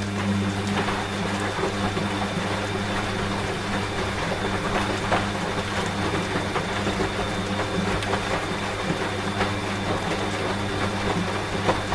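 Washing machine running with a steady electric hum over rainfall pattering.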